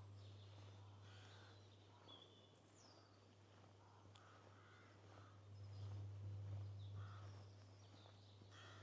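Faint bird calls: short repeated calls and higher chirps, one a quick falling whistle, over a steady low hum.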